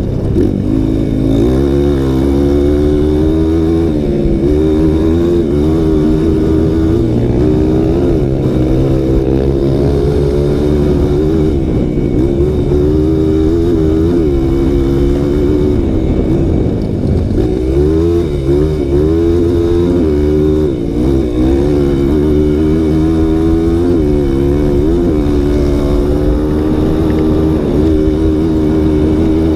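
Single-cylinder four-stroke trail motorcycle engine running under load while riding, its pitch rising and falling with frequent throttle changes, and easing off briefly a couple of times past the middle.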